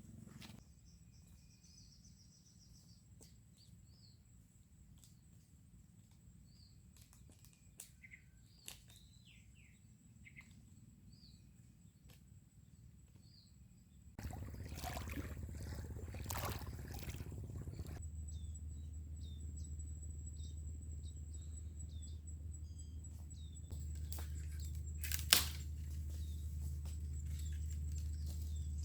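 Birds chirping in short whistled notes over quiet outdoor ambience. About halfway in, a steady low rumble sets in and stays, with a quick run of chirps over it and a single sharp click a few seconds before the end.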